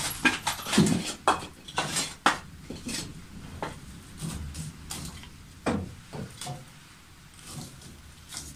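Kitchenware being handled: irregular clinks and knocks, many in the first couple of seconds, fewer and fainter after about six seconds.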